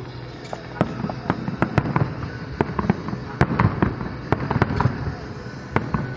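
Aerial firework shells bursting in a rapid, irregular string of sharp bangs, a dozen or more in a few seconds.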